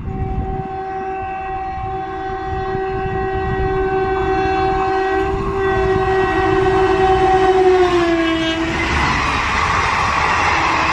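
Indian Railways electric locomotive sounding its horn in one long blast as it approaches at speed, with a brief break about five seconds in and the pitch dropping as it passes about eight seconds in. Then the loud rushing and rattle of the passenger coaches going by.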